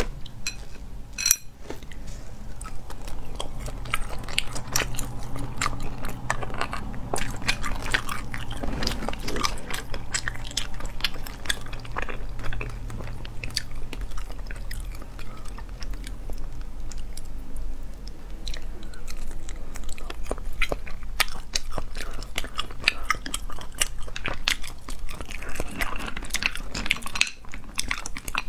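Close-miked chewing of sea snail meat picked from the shell by hand, with many sharp clicks throughout.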